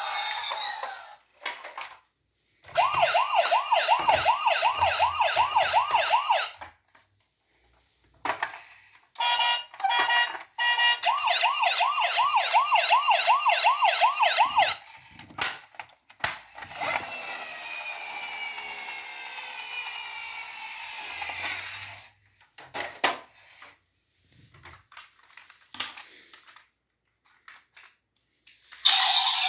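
Battery-powered toy rescue robot's electronic siren, a fast wail rising and falling about three to four times a second, sounding in two bursts of several seconds each, with a short run of beeps just before the second. Then comes a hissing electronic sound effect with falling tones, followed by scattered clicks of the toys being handled.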